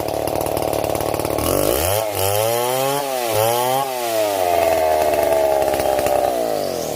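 Stihl MS 070 two-stroke chainsaw running at high revs while cutting wood, its engine pitch repeatedly dipping and recovering, with several quick dips in the middle, then holding higher and steadier before dropping off at the very end.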